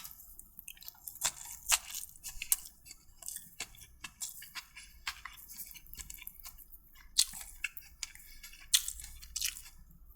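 A person chewing food close to the microphone, with irregular short clicks and crunches of mouth and teeth.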